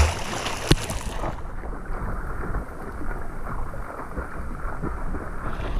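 Water splashing and churning from swimming strokes in the sea. About a second and a half in, the sound turns muffled and dull, as with the microphone under the water, and clears again near the end.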